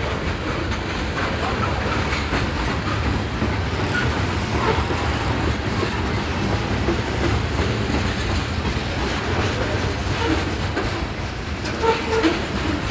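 Freight train of tank cars, boxcars and covered hopper cars rolling past: a steady rumble of steel wheels on the rails, with clicks as the wheels cross the rail joints.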